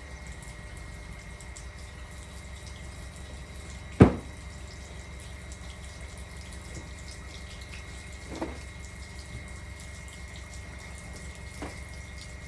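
Water running steadily, with one sharp knock about four seconds in and two fainter knocks later.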